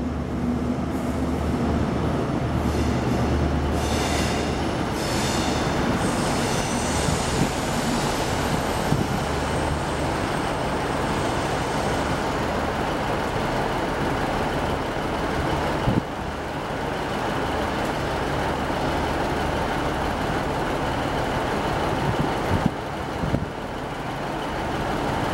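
Class 43 HST diesel power cars pulling a train away, a steady low engine hum and rolling noise throughout. A thin high-pitched wheel squeal comes and goes from about four to twelve seconds in. Brief knocks come at about sixteen seconds and twice near the end.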